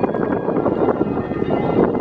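Strong storm wind gusting against the microphone: a loud, steady rush with irregular buffeting.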